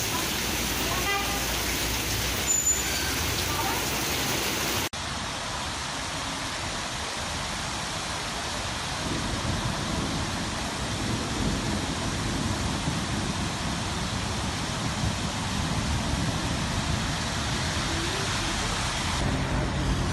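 Steady rain falling, then, after an abrupt change about five seconds in, road traffic on rain-soaked streets.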